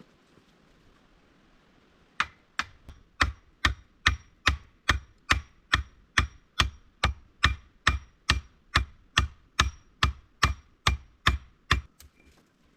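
A hand tool striking wood in a fast, steady rhythm, about two to three blows a second with a faint ring to each; the blows start about two seconds in and stop shortly before the end.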